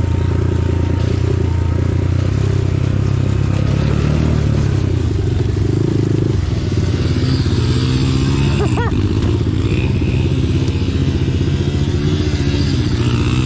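Dirt bike engine running under throttle on a trail, held fairly steady at first, then dropping about halfway through and rising and falling with the throttle, with some clatter from the bike.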